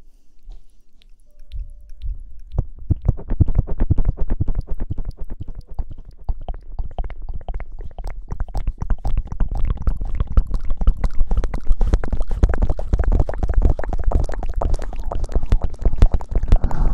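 Close-miked ASMR crackling and scratching: dense, rapid crackles with a low rumble, starting about two and a half seconds in and growing louder toward the end.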